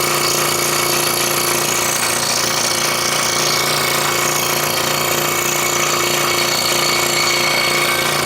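Scroll saw running steadily, its reciprocating blade cutting through a wooden jigsaw puzzle with a fast, even chatter over a steady motor hum.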